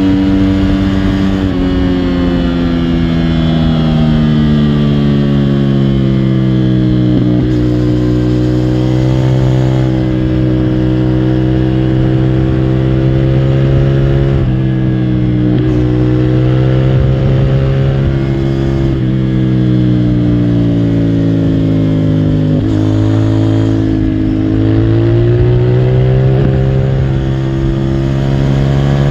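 CFMOTO 450SR motorcycle's parallel-twin engine running under way, its revs falling slowly over the first several seconds, then held fairly steady with a few sharp breaks, and rising again near the end.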